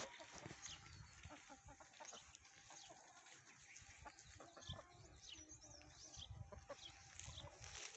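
Chickens and chicks clucking and peeping faintly, in short scattered calls with small clicks between them.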